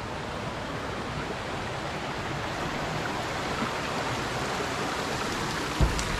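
A stream rushing over rocks, a steady hiss of flowing water, with a brief low thump near the end.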